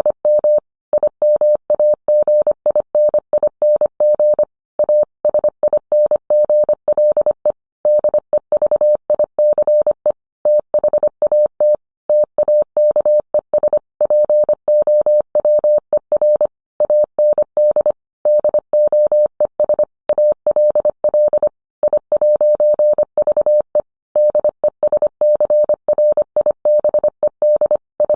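Morse code sent as a single mid-pitched steady tone, keyed on and off quickly in dots and dashes, with short pauses between words.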